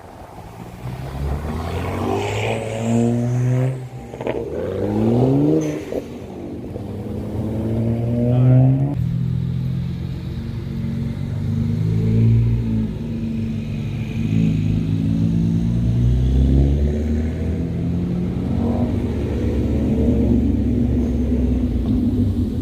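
Car engine revving in several rising pulls, then after a sudden change about nine seconds in, a lower, steadier engine note with small rises and falls.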